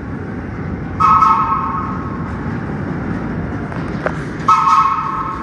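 Subway train horn giving two short toots, one about a second in and another near the end, over the steady rumble of a train.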